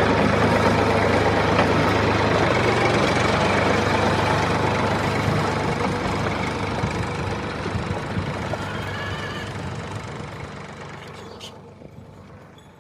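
Tractor engine running steadily with a knocking idle, then fading gradually over the second half until it is nearly gone.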